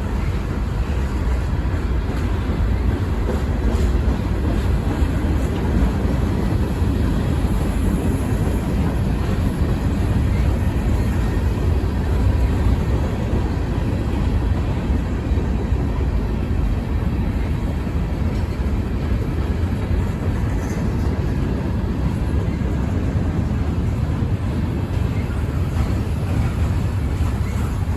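Freight train rolling past, a steady low rumble of railcars on the track.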